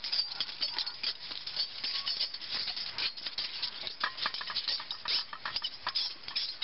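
A metal bar being scraped back and forth across steel railway rails: a continuous gritty scraping full of small clicks and ticks, with sharper ticks about four seconds in. The bar is laid across the rails in an attempt to trip the track circuit and set off the signal light.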